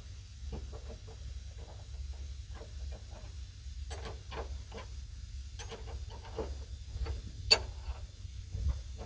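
Hand wrenches working the mounting bolt of a semi truck's cab shock: short runs of quick metal clicks, with one sharper clack about seven and a half seconds in.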